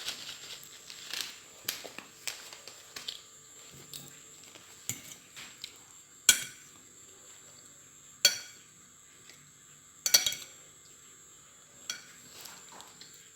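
Cutlery clinking and scraping against a plate while someone eats, with a few sharp, louder clinks about six, eight and ten seconds in.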